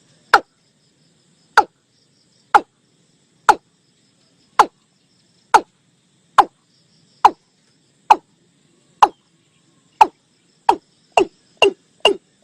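Male watercock calling: a series of short notes, each falling in pitch, about one a second, speeding up to two or three a second near the end. A faint high insect trill runs underneath.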